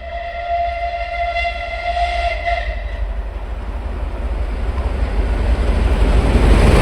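Whistle of the Southern Railway Bulleid steam locomotive 34028 Eddystone, one long blast of about two and a half seconds, followed by the rising rumble of the train approaching, growing louder toward the end.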